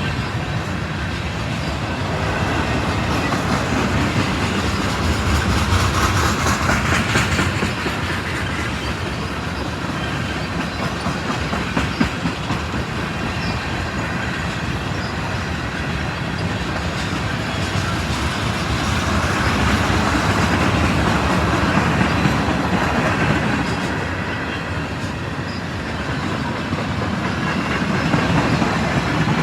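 A train rolling past at close range, its car wheels clattering over the rail joints in a steady rolling rush that swells and eases, with a single sharp knock about twelve seconds in.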